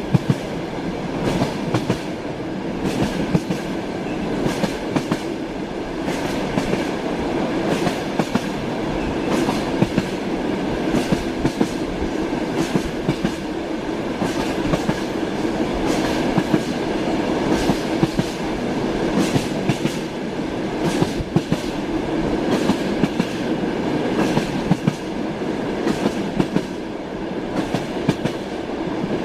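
Moving train: wheels clacking over the rail joints, many sharp clacks over a steady rumble of the railway carriage.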